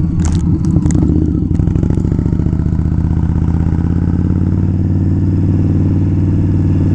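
Indian Scout V-twin motorcycle engine running steadily while riding, with a few sharp clicks in the first second or so.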